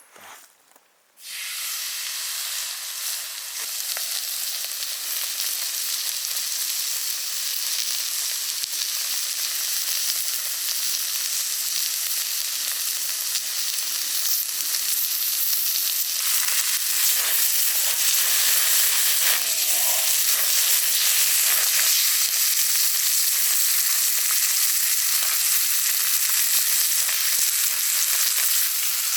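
Steak sizzling loudly in a hot pan, starting suddenly about a second in and then frying steadily.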